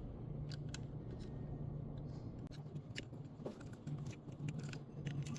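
Faint scattered clicks and small scrapes of wire connectors being handled and pushed onto the terminals of a dryer's electronic control board, over a steady low hum.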